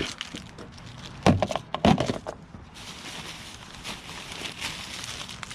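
Things being handled and knocked about, with two loud thunks about a second and a half and two seconds in, amid light clicks and rustling.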